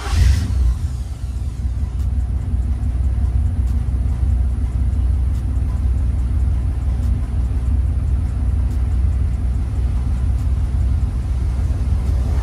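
1988 Chevrolet box Chevy's engine catching with a brief burst right at the start, just after a new battery went in, then settling into a steady, deep-toned idle.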